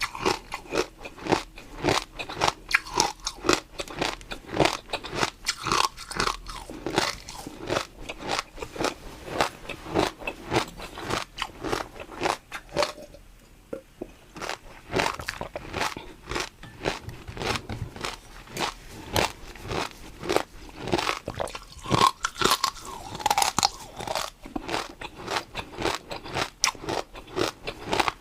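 A person chewing and biting crunchy food close to the microphone, a steady run of crunches with a brief pause about halfway through.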